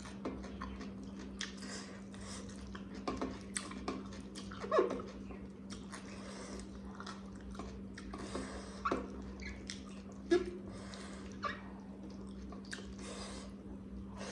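Close-miked eating sounds: a person chewing chicken curry with wet, irregular smacks and clicks of the lips and mouth, over a steady low hum.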